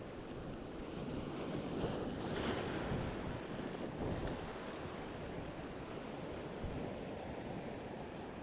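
Sea waves washing in, with wind buffeting the microphone; a wave surges a little louder about two seconds in.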